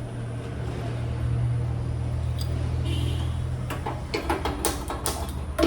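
Gas stove being lit: a run of sharp clicks from the knob and igniter in the last couple of seconds, while the burner fails to catch because the gas is still shut off at the cylinder. A steady low hum runs under the first few seconds.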